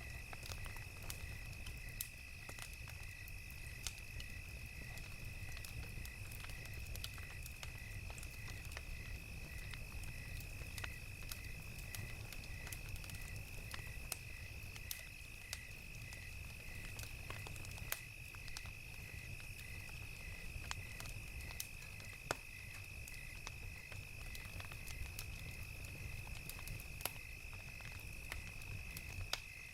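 Crickets chirping in an even, steady rhythm over a continuous high insect trill, with a wood fire crackling in scattered sharp pops and a low rumble underneath.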